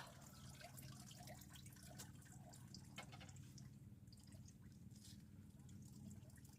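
Faint water dripping and trickling: many small irregular drips and clicks over a steady low hum.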